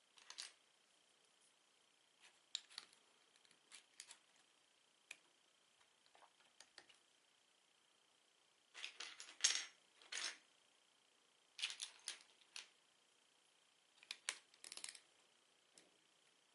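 Plastic Lego bricks being handled, with small sharp clicks and short rattles in scattered groups. The busiest, loudest cluster comes a little past halfway.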